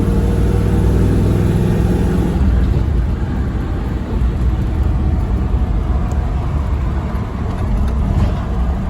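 Chevy V8 in a Range Rover pulling a heavy trailer at road speed, its low drone coming through a Walker Quiet-Flow muffler over road and tyre noise. The engine note eases about two and a half seconds in.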